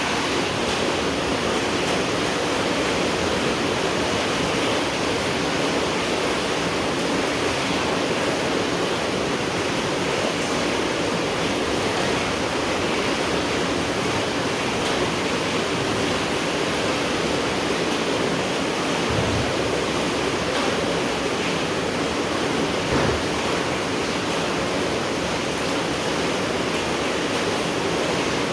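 Steady rain falling, an even unbroken hiss with a couple of soft low thumps, the clearer one about twenty-three seconds in.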